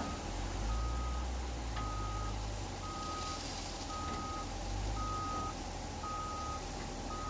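Reversing alarm on a heavy vehicle at a quarry, beeping at a single steady pitch about once a second, each beep about half a second long, over the low rumble of a diesel engine.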